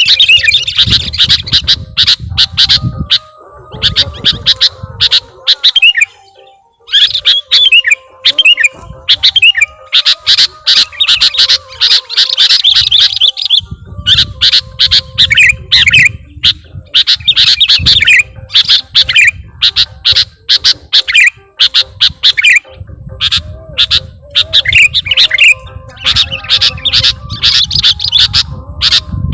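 Sooty-headed bulbul (kutilang) singing a rapid, continuous song of chattering phrases and trills with mimicked notes of other birds (isian), with brief pauses. A low rumble comes and goes underneath.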